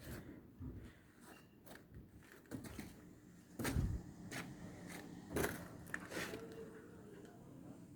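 Wood-chip fire in a moving-grate biomass boiler furnace crackling and popping irregularly, with two louder knocks about three and a half and five and a half seconds in, over a low steady hum.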